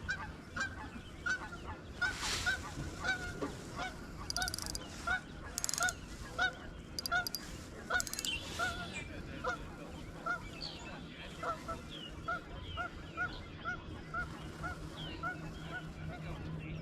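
Geese honking, short calls repeating about twice a second, over a faint steady low hum.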